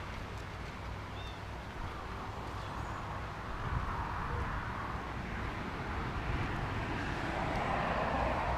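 Outdoor background noise: a steady low rumble with the sound of a passing vehicle that slowly grows louder toward the end.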